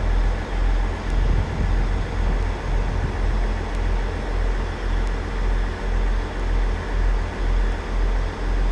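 Class 159 diesel multiple unit idling at the platform before departure: a steady low engine rumble that pulses evenly.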